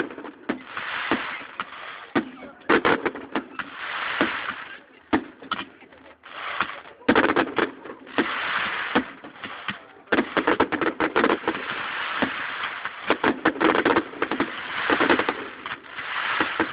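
Fireworks salute: aerial shells bursting in the sky, a long series of sharp bangs with dense runs of quick reports in between, heard through a phone's microphone.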